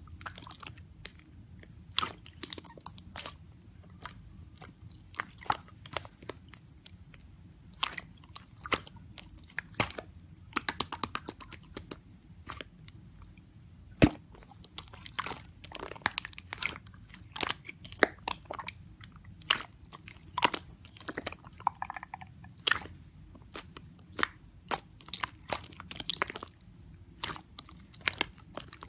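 Slime being worked by hand, making irregular sharp clicks and crackly pops, with one louder snap about halfway through, over a faint low hum.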